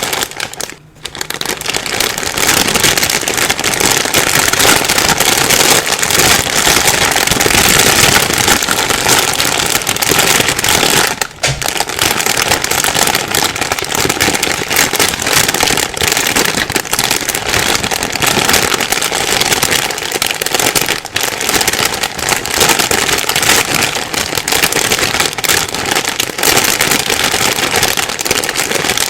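A plastic bag being rustled and crinkled without pause, a dense crackling with two brief dips, about a second in and around eleven seconds.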